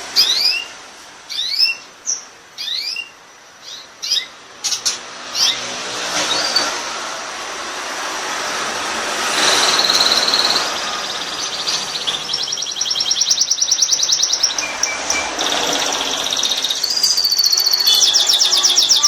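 Canary singing: a string of separate quick rising chirps, then after a short pause long, fast rolling trills that run on to the end.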